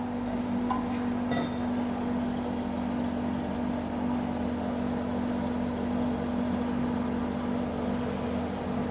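APC1200 bingsu (snowflake shaved-ice) machine running with a steady hum, with a light click a little over a second in.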